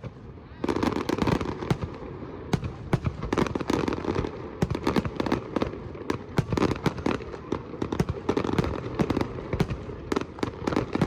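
Fireworks going off in a dense run of bangs and crackles over a continuous rumble, starting about half a second in.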